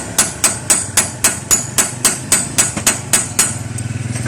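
Fast, steady hammer blows on metal, about four a second with a bright ring, stopping about three and a half seconds in. Just after, an engine starts running steadily.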